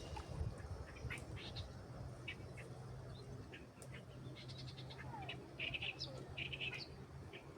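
Songbirds chirping: scattered short chirps, with two quick rapid trills a little past the middle, over a faint steady low hum.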